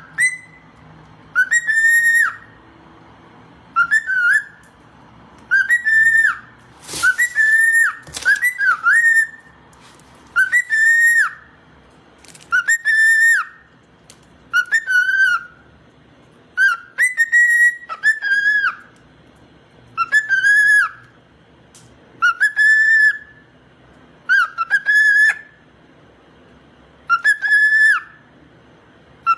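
A parrot whistling the same short phrase over and over, about once every two seconds, each whistle rising and then dropping slightly in pitch. There is one short sharp noise about seven seconds in.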